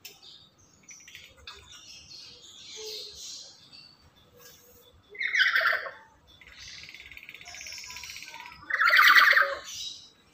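Black-capped lory calling: two loud harsh squawks, about five seconds in and about nine seconds in, with a steady buzzing rattle between them and softer chattering notes before.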